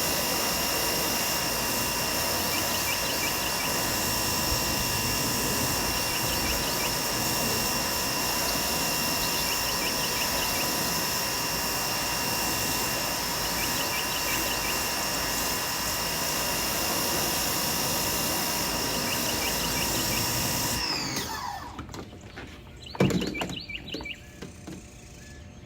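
DeWalt 2100 PSI electric pressure washer running under load, a steady hiss of the water jet from the 40-degree nozzle with a steady motor whine. About 21 seconds in the trigger is let go: the spray stops and the motor whine winds down in pitch. A single knock follows soon after.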